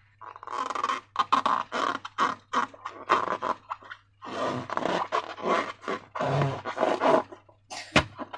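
Slime being squeezed and worked by hand: a run of irregular wet squelches, with a sharp click about eight seconds in.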